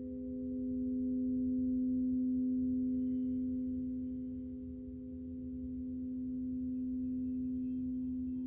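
A sound-healing drone of three steady pure tones held together, the lowest the strongest, over a faint low hum. It swells and eases slowly twice.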